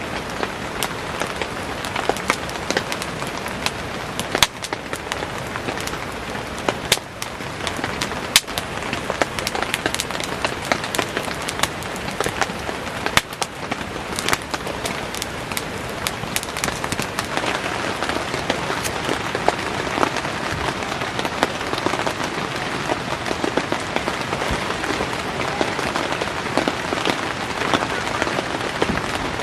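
Heavy rain falling steadily, with frequent sharp pops and crackles from a wood campfire burning in it.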